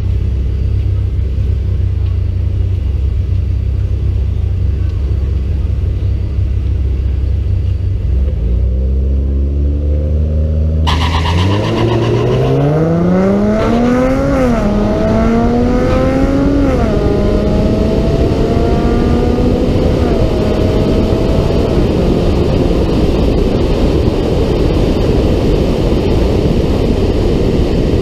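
Car engine on a drag-strip run: it idles with a steady low drone, then about eight seconds in revs up and launches. The engine note climbs through the gears, dropping in pitch at three upshifts. From about twenty seconds in, a steady rush of wind and road noise covers the engine.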